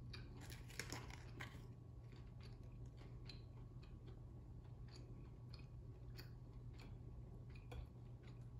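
Faint chewing of food close to the microphone, with scattered soft mouth clicks throughout.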